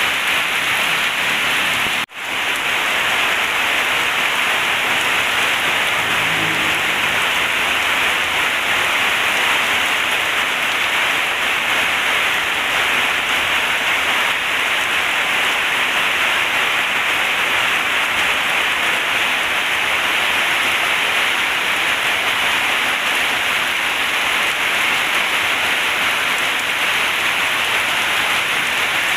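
Heavy rain falling steadily as a dense, even hiss. The sound drops out for an instant about two seconds in.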